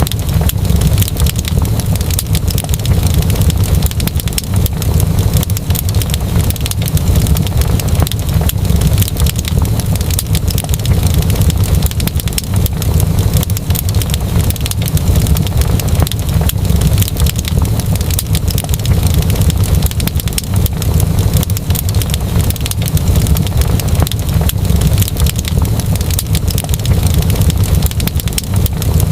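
Wood fire burning in a fireplace, crackling continuously with many small pops over a steady low rumble.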